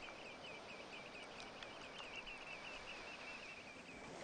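A bird calling in a quick, even run of short high notes that fades out near the end, over a steady hiss of outdoor background noise.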